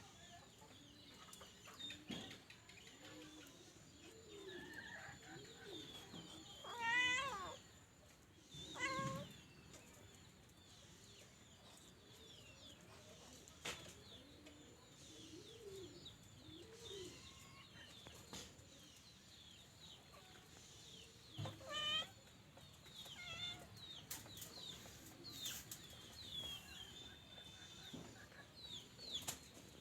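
A cat meowing repeatedly, with loud calls about seven, nine and twenty-two seconds in and quieter calls between.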